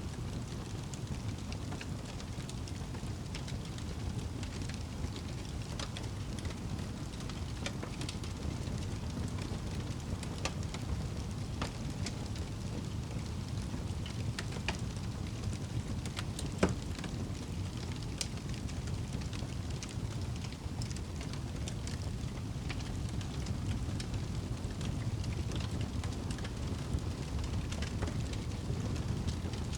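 Wood fire burning in a fireplace: a steady low rumble with scattered small crackles, and one louder pop a little past halfway.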